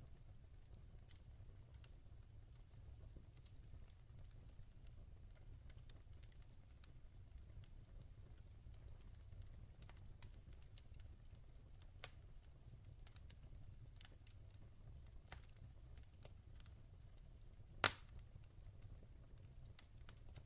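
Log fire crackling faintly, with scattered small pops and one sharp, much louder pop near the end, over a low steady rumble.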